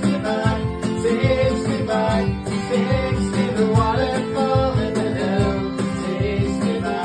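Live folk song with strummed acoustic guitar and a singing voice, played at a steady, even rhythm.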